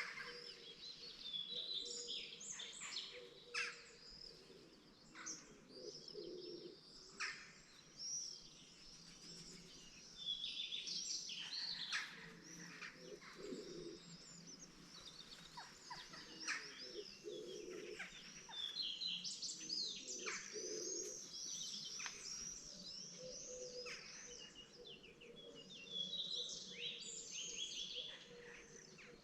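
Morning chorus of many songbirds singing at once: a dense, continuous overlap of quick chirps, twitters and trills, with some fainter, lower calls beneath.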